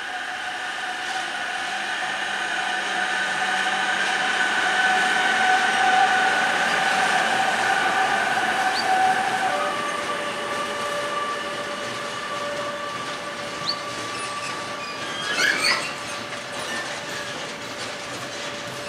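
Freight train of covered sliding-wall wagons behind an electric locomotive rolling past, a continuous noise with steady high tones running through it that step slightly lower about halfway through. A brief burst of clattering knocks comes about fifteen seconds in.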